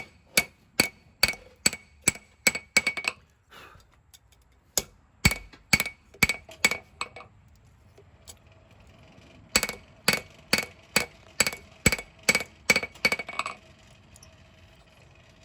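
Blacksmith's hand hammer striking a hot steel knife blade on an anvil, each blow ringing, about two blows a second in three runs with short pauses between, as the blade is forged into shape.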